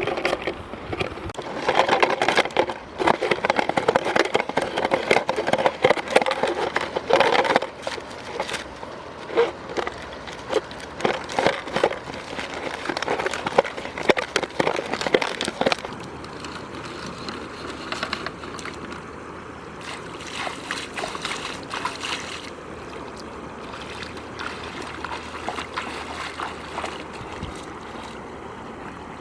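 Water splashing and sloshing in irregular bursts, busiest in the first few seconds and settling to a softer, steadier wash after about sixteen seconds.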